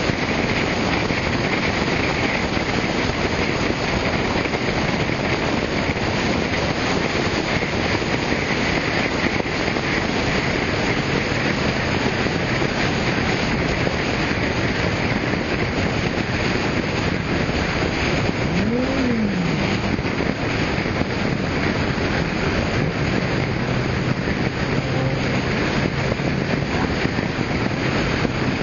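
Steady rush of wind and car traffic noise, with a low engine hum coming and going and a brief note that rises and falls in pitch about two-thirds of the way in.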